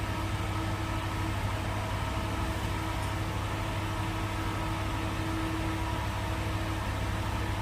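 Steady machine hum, unchanging, with a deep low drone and a few faint steady tones above it.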